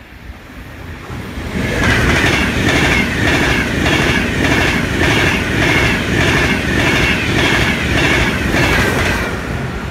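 Frecciarossa high-speed train passing close at speed: a loud rush with a regular clatter of wheels on the rails, about two beats a second. The sound builds up over the first two seconds and eases off near the end.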